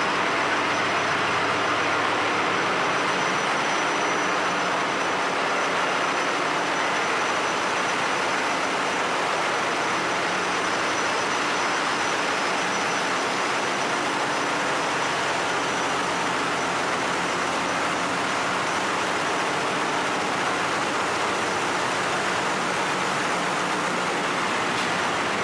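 Ship's engine-room machinery running steadily: an even roar with a low hum underneath and a thin high whine, unchanging throughout.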